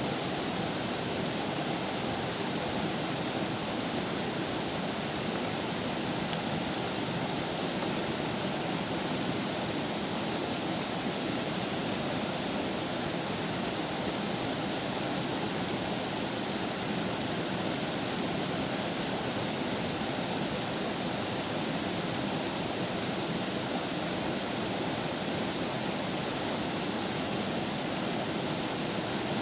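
River water flowing steadily, a constant rushing noise that does not change.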